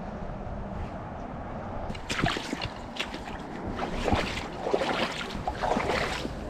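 Footsteps sloshing and splashing through shallow water and wet grass, irregular strokes starting about two seconds in, over a low wind rumble on the microphone.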